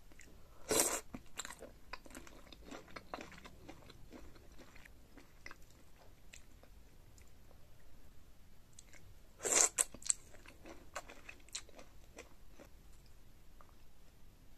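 Close-miked eating sounds of a person biting into and chewing sauce-coated boiled shrimp: two loud bites, about a second in and again near ten seconds, with soft chewing clicks between.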